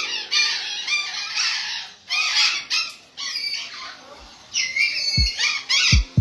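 Many caged birds chattering and squawking at once in an aviary, their calls overlapping. A few deep, falling booms come in near the end.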